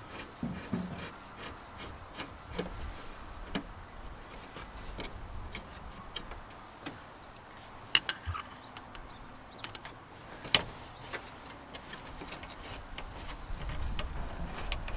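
Scattered clicks and knocks of hand tools and metal and plastic parts as a headlight is being unscrewed from a car's front end, with two sharper clicks about eight and ten and a half seconds in.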